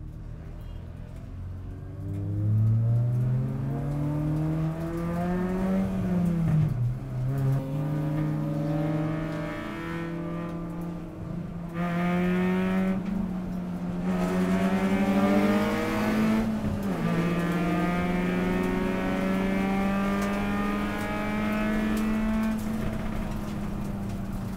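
Honda Civic coupe race car's four-cylinder engine heard from inside the cabin, accelerating hard through the gears. Its pitch climbs steeply, drops briefly at an upshift about six seconds in, climbs again, and dips at a second upshift around seventeen seconds before running on at high revs.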